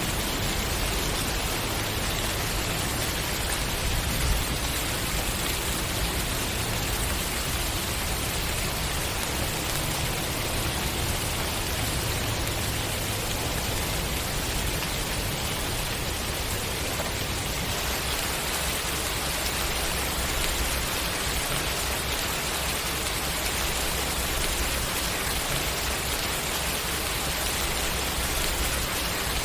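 Steady rain falling, an even, dense hiss with a low rumble beneath it; the texture shifts slightly about two-thirds of the way through.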